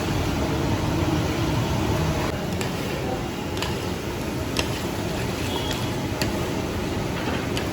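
A steady low rumble with a few short, sharp clicks scattered through the middle.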